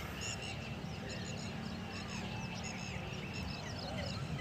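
Many birds chirping at once in quick, overlapping calls, over a steady low rumble.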